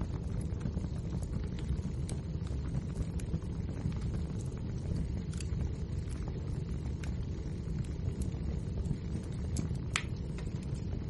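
Wood fire crackling, with many small pops over a steady low rumble and one sharper pop near the end.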